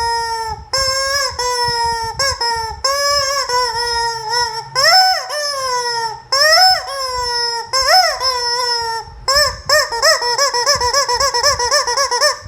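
Rubber chicken squeeze toy honking over and over as it is squeezed: runs of quick pulsing squawks, with a few longer squawks that rise and fall in pitch in the middle.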